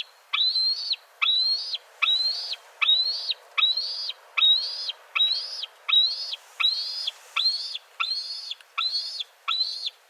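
A bird's high, whistled call, repeated regularly about every three-quarters of a second, about thirteen times. Each note starts sharply, rises slightly and is held for about half a second.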